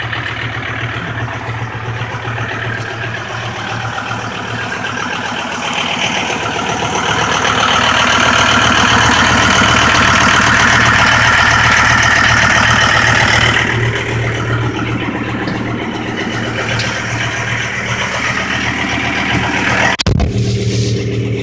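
John Deere 5325 tractor's diesel engine running, getting louder and higher about six seconds in, holding there for several seconds, then easing back about fourteen seconds in. The sound breaks off suddenly near the end.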